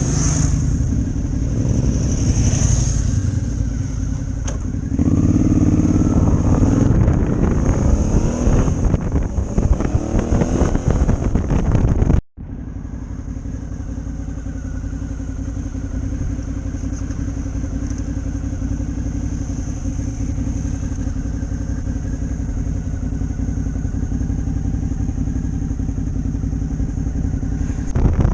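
Motorcycle engine running while riding, its pitch rising and falling through the first twelve seconds. After a sudden break about twelve seconds in, it runs at a steadier pitch.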